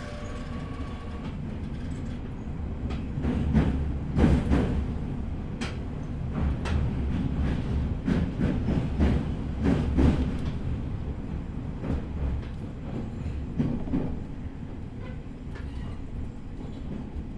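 Inside an E501 series electric train car running slowly under a strong-wind speed restriction: a steady low rumble of wheels on the track, with irregular clacks and knocks from the rails.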